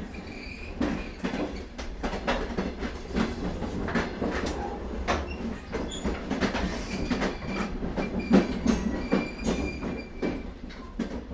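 Vande Bharat Express electric trainset running on the track: a steady low rumble with irregular clacks and knocks of the wheels over the rails. A faint thin squeal comes in over the second half.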